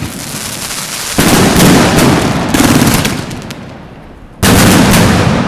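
Fireworks going off: loud bangs and crackling, with a sudden louder burst about a second in and another near the end.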